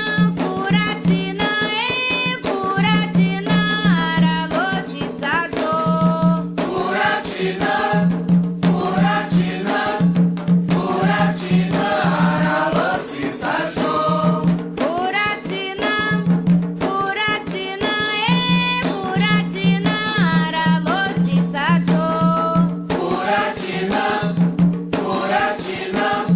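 Afro-Brazilian religious chant for Xangô: voices singing a melody in Yoruba over drums and percussion, with a low tone underneath that comes and goes.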